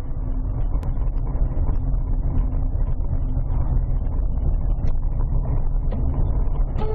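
A car driving: a steady, low road and engine rumble.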